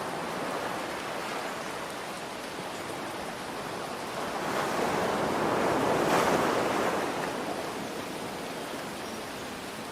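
Ocean surf with steady rain falling. One wave swells up from about four seconds in, breaks around six seconds and washes back out by about eight seconds.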